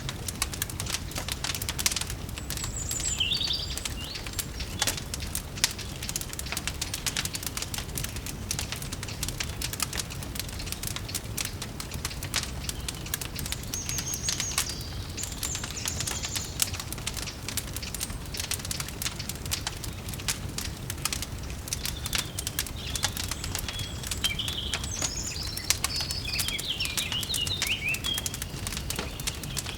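Wood fire crackling with dense, irregular pops over a steady low rumble, with birds chirping now and then.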